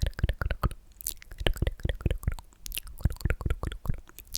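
ASMR mouth sounds: quick, wet, sticky lip and tongue clicks and smacks, several a second in irregular clusters.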